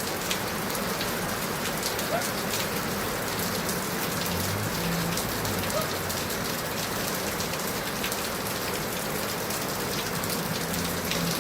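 Steady rain falling, a constant hiss with scattered individual drops ticking on a nearby surface.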